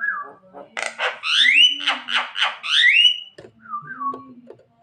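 Javan myna (jalak kebo) calling: about a second in comes a loud run of scratchy notes and rising whistles lasting some two and a half seconds, with shorter whistled notes just before it and near the end.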